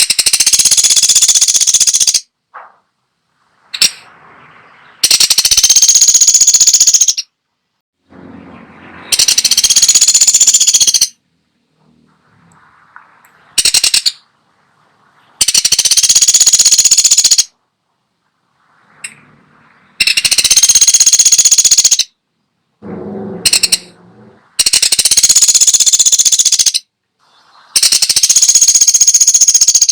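A woodpecker (the 'pelatuk sampit' of Indonesian bird keepers) giving rapid, high-pitched rattling calls, each lasting about two seconds and repeated every four to five seconds, seven times.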